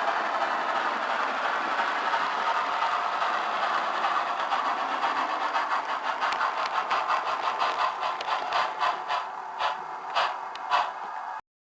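Bachmann HO scale Norfolk & Western 611 model steam locomotive's DCC sound decoder playing steady steam hiss and chuffing through its small speaker. The chuffs grow distinct and slow down over the second half as the engine eases off, then the sound cuts off suddenly near the end.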